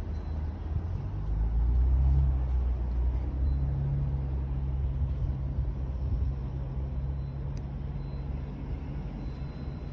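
Low rumble of a motor vehicle running nearby, swelling about a second and a half in and then slowly easing off.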